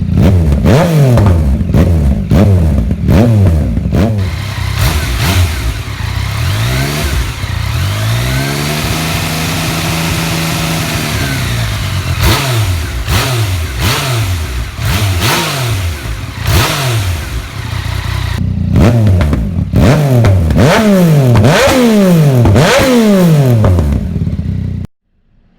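Yamaha MT-09's three-cylinder engine through an M4 RM1 full carbon exhaust, revving up and dropping back again and again, with one longer rise and fall in the middle. The sound cuts off abruptly near the end.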